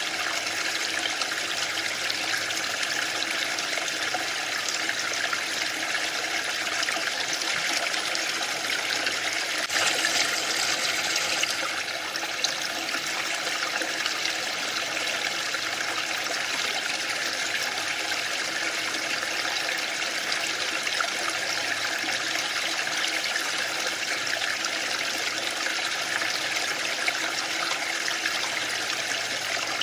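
Waterfall: falling water rushing in a steady hiss, a little louder for a couple of seconds about a third of the way in.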